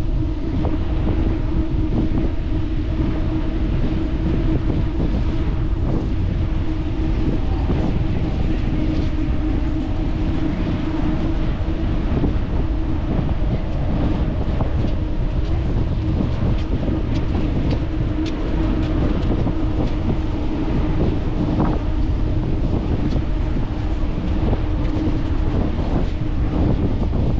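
Wind buffeting the microphone of a camera on a moving bicycle, heavy and steady. Through it runs a continuous low hum, with scattered small ticks.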